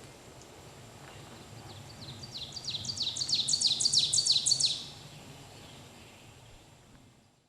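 An ovenbird singing one song: a run of repeated two-note phrases that grows louder and louder, then stops. A steady low background rumble runs beneath and fades away near the end.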